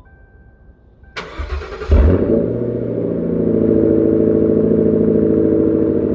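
2006 Lincoln Town Car's 4.6-litre V8 with a Roush axle-back exhaust being started: the starter cranks about a second in, the engine catches near two seconds in, then it settles into a steady, loud idle.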